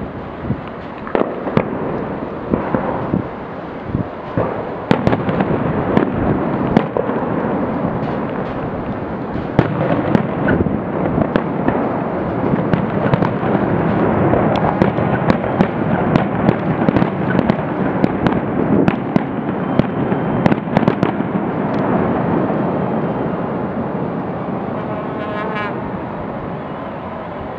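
Fireworks display: a dense barrage of sharp bangs over continuous crackling, busiest in the middle and thinning out near the end.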